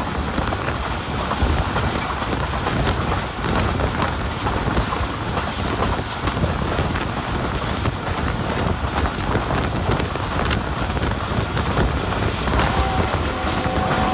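Passenger train coach running at speed on the rails, heard from an open window: a steady rush of wheel and track noise with heavy wind buffeting the microphone. A faint held tone comes in near the end.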